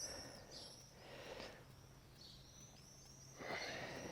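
Faint ambience of small birds chirping, with a couple of soft rustles.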